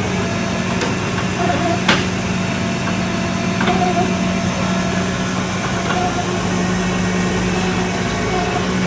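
Tow truck engine idling with a steady hum, with a few sharp clicks and knocks over it, the loudest about two seconds in.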